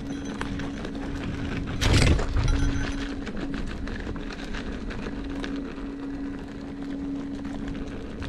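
Electric unicycle ridden along a dirt trail: a steady motor hum with scattered clicks and knocks from the wheel over the ground, and one loud knock about two seconds in.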